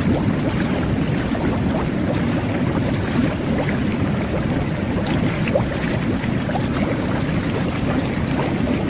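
Jet bath (whirlpool tub) jets churning the bathwater: a steady low bubbling rush with many small bubbles popping through it.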